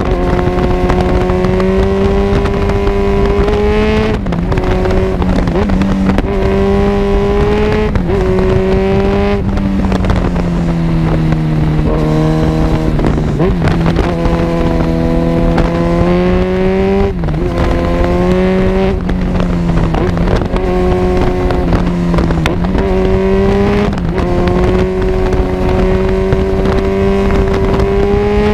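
Kawasaki Z1000 inline-four engine running through an Arrow full exhaust system while riding. The exhaust note climbs slowly in pitch and then drops sharply, over and over, as the throttle is worked and gears change.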